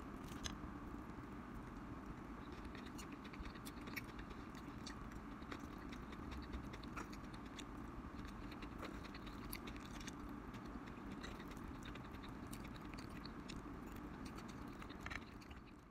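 Egg and vegetable omelette sizzling in a frying pan: a faint, steady frying hiss with many small crackles and pops.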